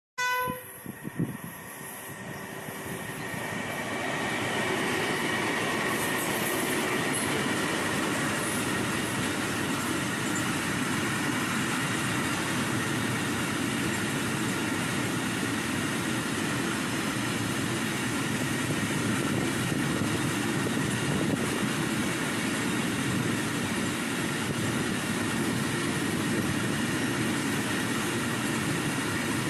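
Long freight train running on the rails, growing louder over the first few seconds and then holding a steady rumble of wheels on track, with a thin high squeal running through it.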